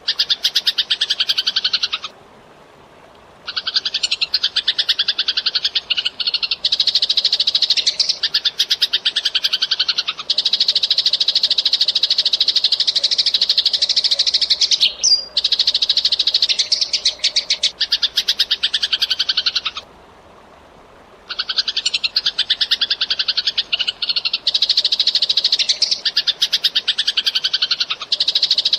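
Eurasian tree sparrows chirping in a dense, very rapid chatter, the calls packed almost without pause. The chatter stops twice, about two seconds in and again about twenty seconds in, for a second or so each time.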